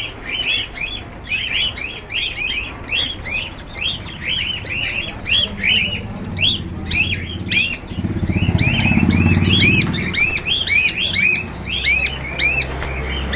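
Many caged small birds chirping continuously in quick, overlapping high chirps. About two-thirds of the way through, a low buzzing engine-like rumble swells, becomes the loudest sound, then fades.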